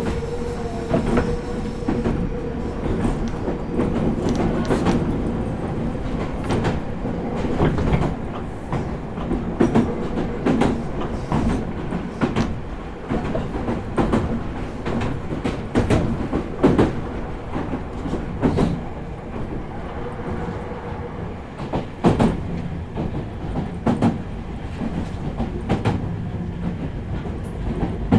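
Meitetsu 4000 series electric train running between stations, heard from inside the car: a steady rumble with repeated clicks and clacks as the wheels pass over rail joints. A steady tone from the drive equipment can be heard in the first few seconds, then fades.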